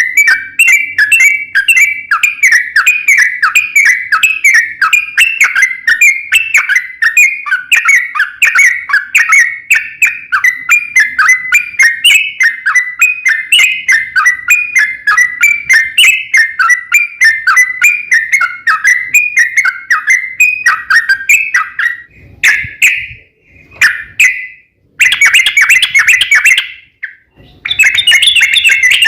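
Yellow-vented bulbul (trucukan) singing a long, rapid run of bubbling, whistled notes, several a second without a break. About three-quarters of the way through, the song breaks into shorter bursts with brief silences between them.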